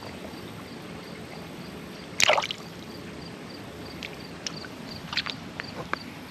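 A small yellow bullhead released back into the creek, hitting the water with one short splash about two seconds in, over a steady background of water. A few light clicks and drips follow.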